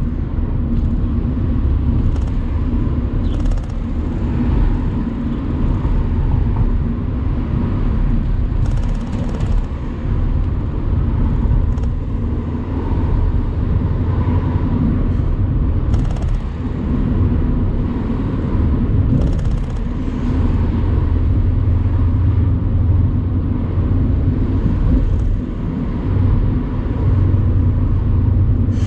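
Mercedes-AMG C63 convertible's twin-turbo V8 running at steady cruising as the car is driven with the top down, a low rumble of engine and road noise without any big revs.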